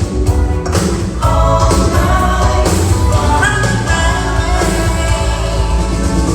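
A live band playing a pop song with singing over a steady bass and drum beat.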